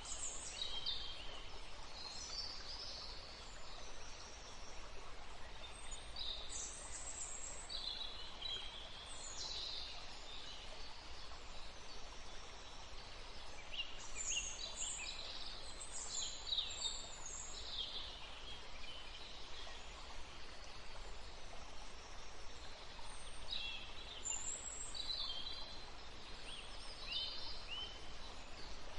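Small songbirds chirping and trilling in short high bursts that come in clusters every few seconds, over a steady background hiss of the forest.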